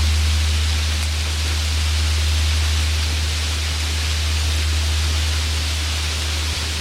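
Steady rain hiss under the deep, lingering hum of a large Korean Buddhist temple bell (beomjong) fading after its last strike; a higher overtone of the bell dies away about a second in.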